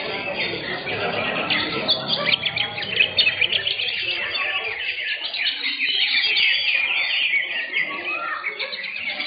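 Several caged green leafbirds (cucak hijau) singing at once in a dense, unbroken stream of quick chirps and trills.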